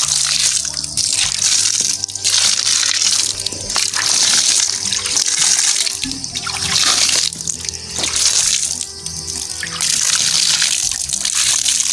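Water being poured onto garden plants, splashing in a series of pours each a second or two long, over background music with held low notes.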